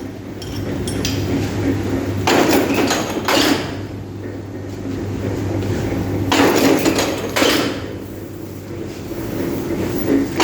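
Iron chain welding and bending machine running through its cycle. It clanks in a group of metallic strikes about every four seconds over a steady motor hum.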